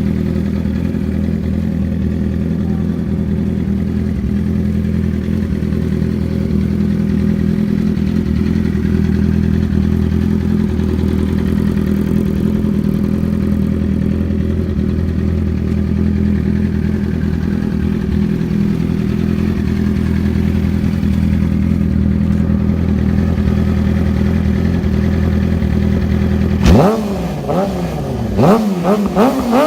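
Warmed-up engine idling steadily, then revved in a few quick throttle blips near the end, its pitch rising and falling each time.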